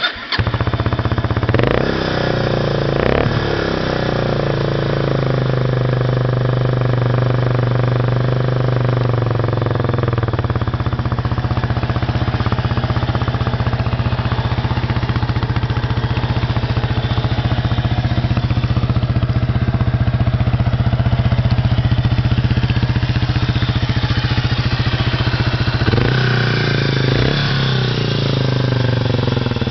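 Kawasaki Estrella RS (BJ250A) 249 cc air-cooled single-cylinder four-stroke catching just as the sound begins. The engine is revved briefly twice, then idles steadily. Two more quick revs come near the end.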